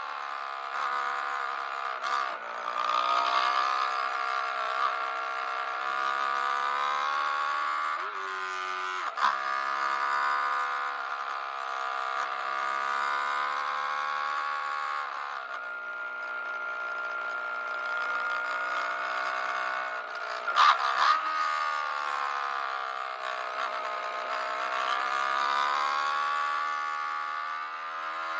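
Yamaha R3's 321 cc parallel-twin engine with an aftermarket exhaust, revving hard on track: its pitch climbs through the gears and drops back on downshifts, over and over, with wind noise. A couple of sharp cracks come about two-thirds of the way through.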